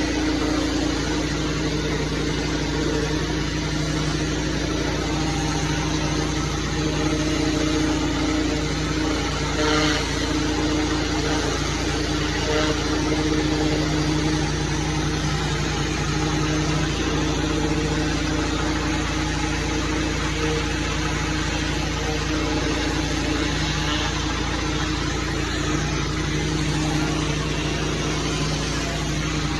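Small gasoline engine of pressure-washing or blowing equipment running steadily at constant speed, with a steady hiss over it.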